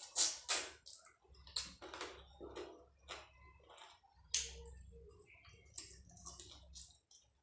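Close-up mouth sounds of someone eating chicken curry and rice by hand: irregular wet smacks and clicks of chewing and lip-smacking.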